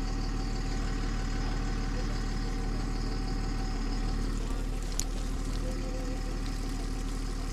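A vehicle engine idling steadily, with one faint click about five seconds in.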